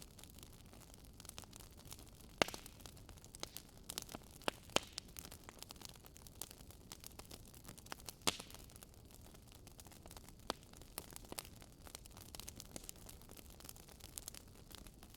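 Wood fire crackling: irregular sharp pops and snaps, a few louder ones, over a faint steady hiss.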